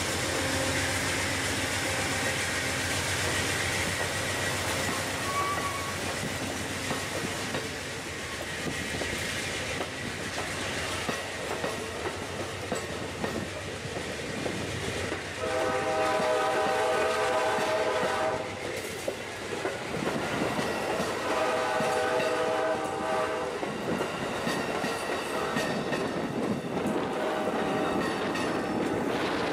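Amtrak passenger train rolling along the track with steady rumbling wheel and engine noise. Its diesel locomotive horn sounds two long blasts in the second half, a few seconds apart, then a fainter one near the end.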